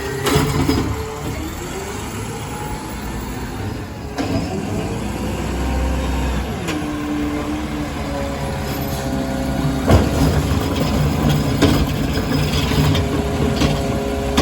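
Diesel garbage truck engine running, its pitch rising and falling as it revs, with scattered clicks and knocks.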